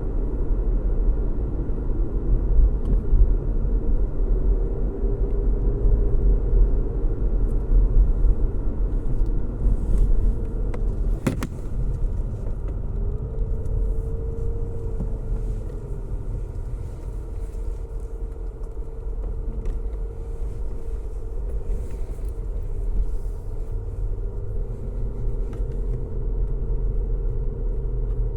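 Car driving steadily on a road: a continuous low rumble of road and engine noise with a faint hum wavering slightly in pitch. A single short click about eleven seconds in.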